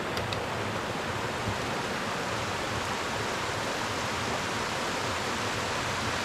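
Mountain creek rushing steadily over rocks and boulders, an even unbroken roar of water.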